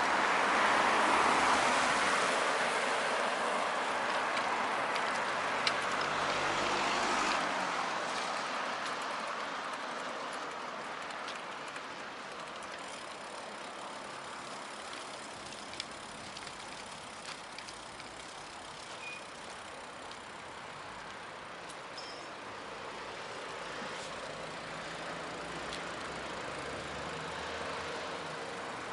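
Street traffic noise: a passing vehicle's tyre noise fades away over the first several seconds, leaving a quieter, steady hiss of more distant traffic that swells again near the end.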